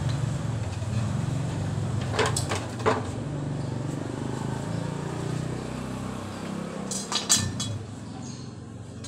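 A small motorcycle engine idling steadily, fading out about eight seconds in, with a few sharp clicks twice along the way.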